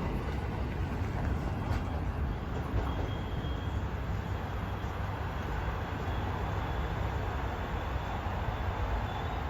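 Steady rumbling noise of a commuter rail train running along the track as it moves off after passing.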